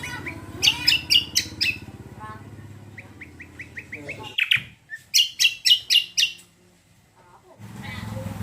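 Cucak kombo songbird calling in bursts of sharp, high chirps: a quick run of short notes in the middle and a loud series of about six chirps, then a brief pause. This is the kind of lively song used as a lure to set other birds singing. A steady low hum runs underneath.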